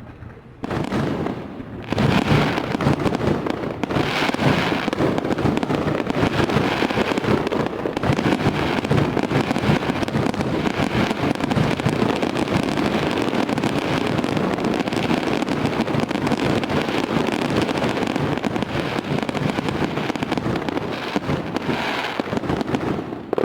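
Fireworks going off in a dense, unbroken rattle of many closely packed bangs and crackles. It starts about a second in and grows louder near two seconds.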